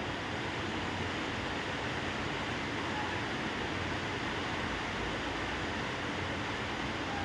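Steady, even rushing noise with no clear calls or other events.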